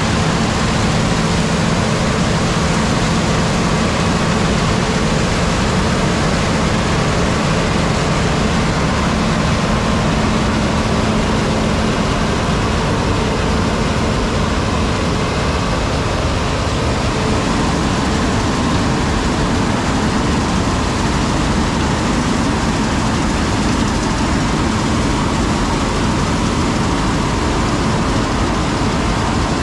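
Heavy harvest machinery running steadily: a loud, even engine-and-machine noise with a low hum that does not change.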